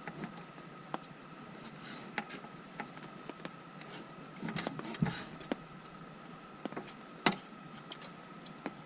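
Irregular light taps and clicks, a few at a time, the sharpest about seven seconds in, over a faint steady high tone.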